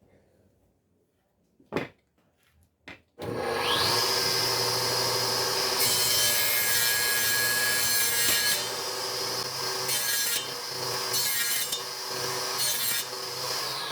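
Two clicks, then an electric power tool spins up with a rising whine about three seconds in and runs at a steady high pitch while working wood, the load varying. It begins to wind down at the very end.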